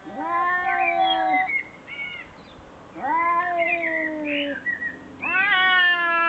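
A cat giving long, drawn-out meows: three sustained calls of about a second and a half each, with a short call between the first two. The last is still going at the end.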